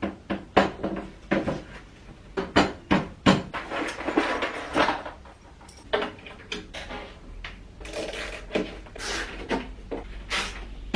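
A run of knocks, clatters and clinks as hard household objects are handled and set down, with a busier stretch of clattering about four seconds in.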